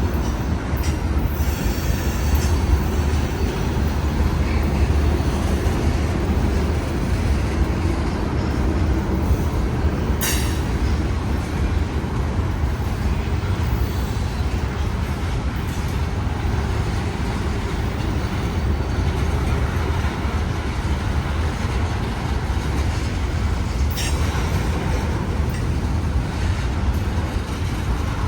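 Freight train cars rolling slowly past with a steady, heavy low rumble of wheels on rail. Two brief, sharp metallic clanks or squeals cut through, about ten seconds in and again near the end.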